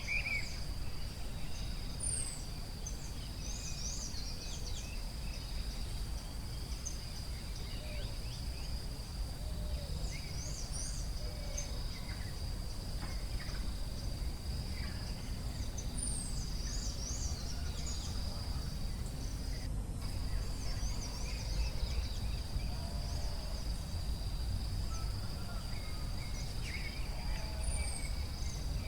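Forest ambience: a steady, high-pitched insect drone with many short bird chirps and whistles over a low, steady rumble. The sound drops out for an instant about two-thirds of the way through.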